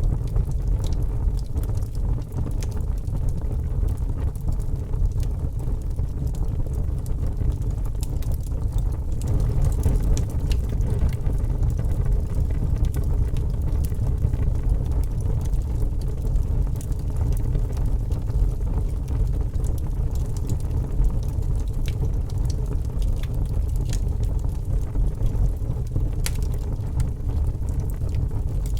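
Wood fire burning, with a steady low rumble and scattered sharp crackles and pops, the pops coming a little more often near the end.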